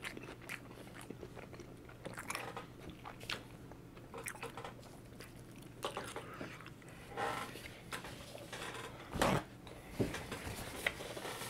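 Close-miked chewing of a burger: soft, scattered mouth clicks and smacks. A louder bump comes about nine seconds in.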